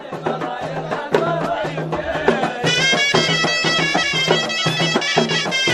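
Jebli folk music on the ghaita, the Moroccan double-reed shawm, playing a reedy melody over steady drum beats; about two and a half seconds in, the ghaita line comes in louder on long, bright held notes.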